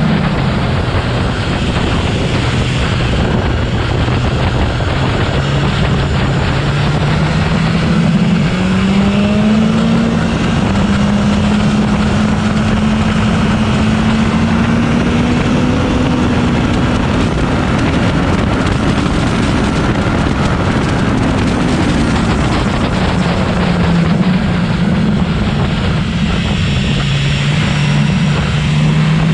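BMW S1000XR's inline-four engine running at track speed, its note falling and then rising again several times as the bike slows for corners and accelerates out of them, under heavy wind rush on the low-mounted camera microphone.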